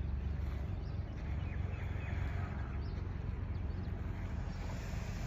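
Wind buffeting the microphone, with a steady low rumble and a rushing hiss behind it.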